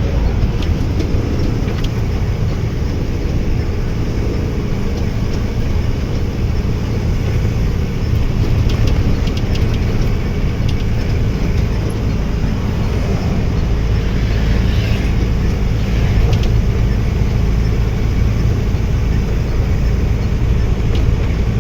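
A truck's engine running steadily with road noise while driving, a continuous low rumble. A few light rattles come through in the middle.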